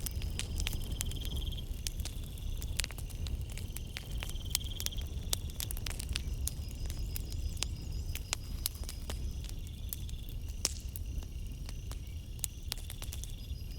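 Wood campfire crackling, with many sharp pops over a steady low rumble. Insects trill in repeated pulsing phrases behind it.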